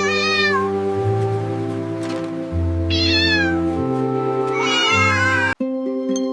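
A cat meowing three times over background music. The music cuts out for an instant near the end, then starts again.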